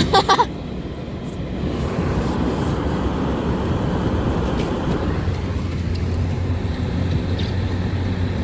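Cabin noise of a Nissan four-wheel-drive truck driving on a snowy road: engine and tyres running steadily, with a steady low engine hum coming in about halfway through.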